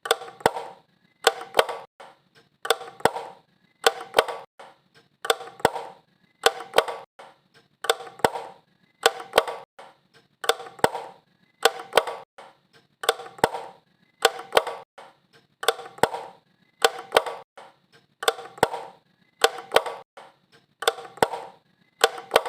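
Wall light switch flipped over and over, giving sharp clicks in quick pairs at an even pace, each with a short ringing tail.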